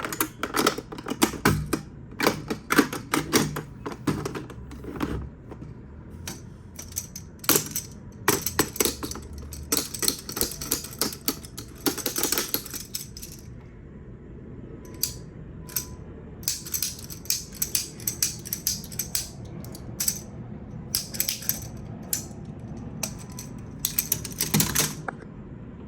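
Irregular clicking and clattering of small hard toy parts being handled, coming in quick clusters with short pauses between them.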